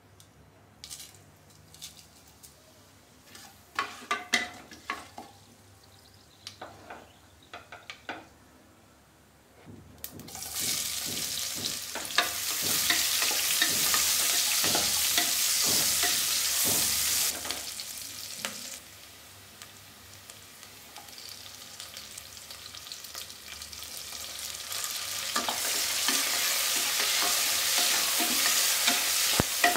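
Oil in an aluminium pressure cooker, with a few small clicks of spices and a spoon going into the pot. About ten seconds in, sliced onions start sizzling loudly in the hot oil as a wooden spatula stirs and scrapes them. The sizzle eases for several seconds, then swells again near the end with green chillies and tomato in the pan.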